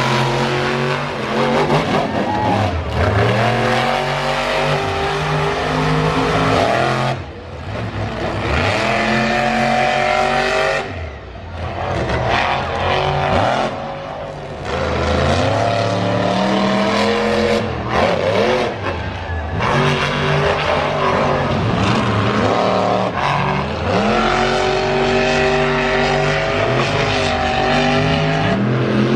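Monster truck engine revving hard, its pitch climbing and dropping again and again as the throttle is worked, with a few short lulls.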